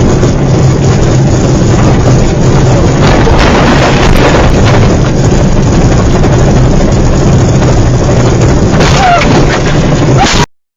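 Loud, steady roar of a moving vehicle's engine and wind buffeting the microphone, with a constant low hum, cutting off abruptly near the end.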